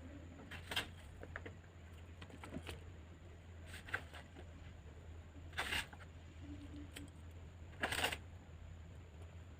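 Close-up eating of a crunchy raw garden salad: about four crisp crunches spaced a couple of seconds apart, the loudest about eight seconds in, with faint clicks between them.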